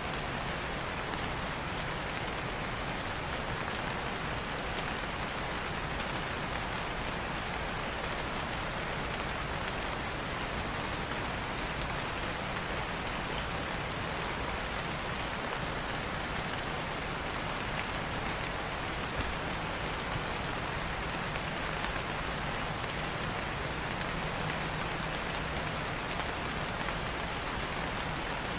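Steady rain falling on leaves in a rainforest, an even hiss. About six seconds in, a short, high series of three or four quick notes sounds briefly.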